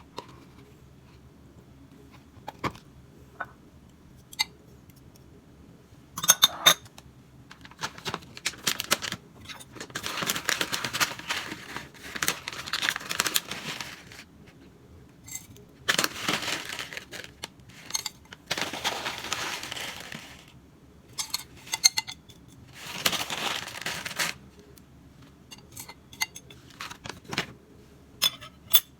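Kitchen food-preparation sounds: scattered clinks and knocks of utensils and dishes, with several stretches of a few seconds of rustling or rushing noise.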